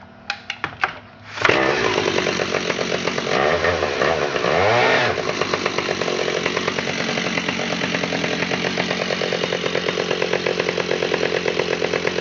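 1980 Stihl 048 two-stroke chainsaw with a 77cc engine being started: a few quick clicks, then the engine fires about a second and a half in. It revs up and down a couple of times, then runs on steadily.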